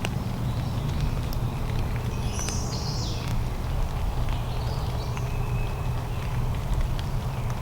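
Small birds giving short high chirps now and then, one louder call about two and a half seconds in, over a steady low rumble with scattered light ticks.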